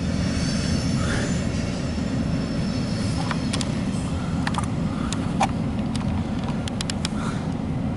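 Loaded coal train rolling past: a steady low rumble of wheels on rail, with scattered sharp clicks throughout.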